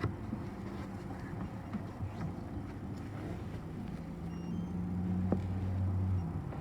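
City bus engine running, heard from inside the passenger cabin as a steady low drone; it swells for a couple of seconds past the middle, as under acceleration, then falls back near the end. A single sharp click sounds just after it begins to swell.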